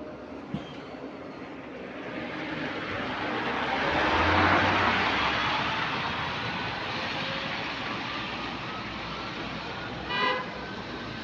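Electric bus on the move: road and tyre noise swells to a peak about four seconds in and eases off, with a faint rising motor whine. A short beep sounds about ten seconds in.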